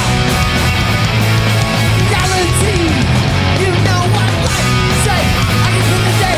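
New York hardcore band playing live: loud, distorted electric guitars over bass and drums, steady and dense.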